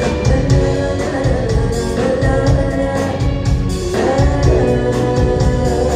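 Live band playing the instrumental introduction to a song: a steady drum beat and bass under sustained melody notes.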